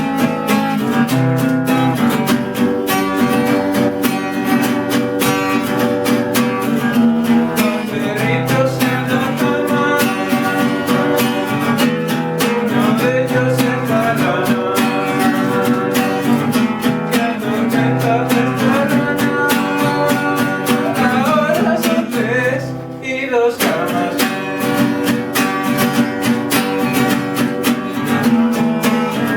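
Acoustic guitar strummed steadily through a song, with a brief break in the playing about 23 seconds in.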